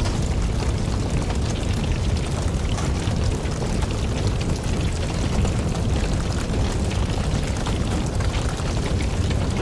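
Wood campfire burning: a steady low rush of flames with many small crackles and pops from the logs throughout.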